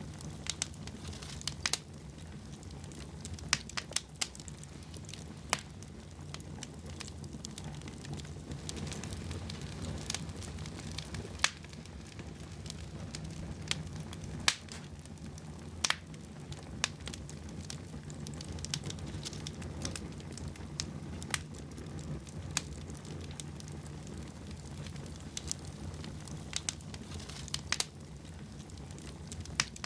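Wood fire burning in a fireplace: crackling with irregular sharp pops and snaps over a low, steady rumble.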